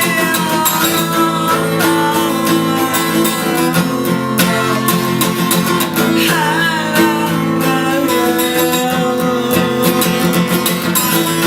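Acoustic guitar strummed steadily, with a voice singing long, drawn-out wordless notes over it.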